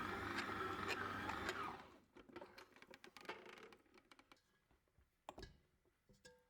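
Electric mixer kneading bread dough, running steadily and then switched off a little under two seconds in, followed by a few faint clicks and knocks.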